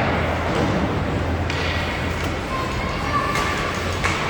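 Indistinct chatter of spectators at an ice hockey game, with no single voice standing out, under a steady background din.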